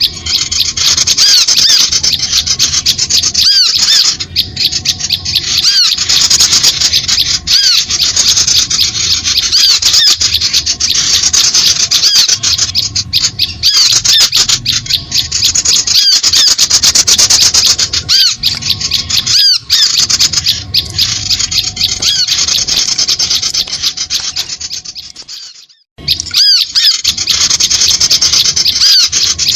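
Loud, dense chattering and chirping of small birds, many high calls overlapping without pause: a bird-luring (pikat) call recording meant to draw birds in to birdlime. The calls fade out briefly about 26 seconds in and start again.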